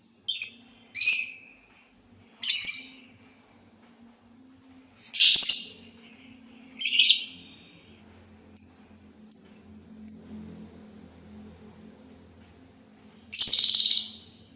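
A labet songbird giving short, sharp calls at irregular intervals of one to three seconds, two close together at the start and three shorter, higher notes in quick succession in the middle. A faint steady high whine runs underneath.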